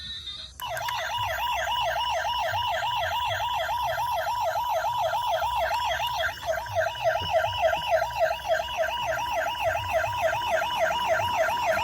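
Electronic siren of a toy emergency vehicle sounding a fast warble, about five pitch sweeps a second, starting just under a second in. About halfway through it switches to a quicker, narrower warble.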